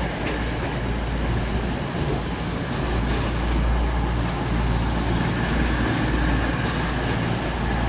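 East Midlands Railway Class 222 Meridian diesel-electric multiple unit running in on arrival, with a steady low rumble of engines and wheels on rail.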